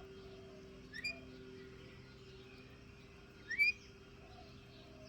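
Pet lory giving two short rising chirps, one about a second in and a louder one a little past halfway, over a steady low hum.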